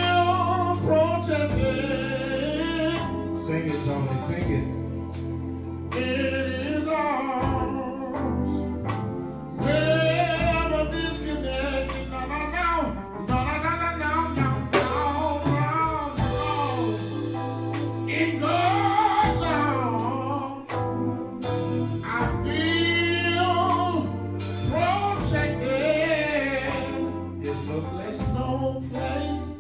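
Gospel praise-and-worship music: a sung vocal line over steady instrumental backing, sustained notes held and bent through the phrases.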